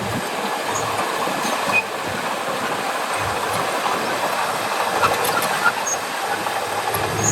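Heavy earthmoving work: a steady, dense rattling and scraping noise with no low engine hum under it.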